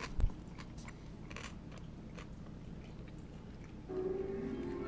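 Eating at a table: scattered light clicks of cutlery and plates, with a sharper knock about a quarter second in. A steady hum starts about four seconds in.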